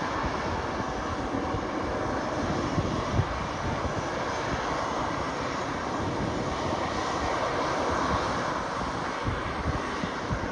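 Airliner engine noise at an airport: a steady, even roar that swells a little after the middle.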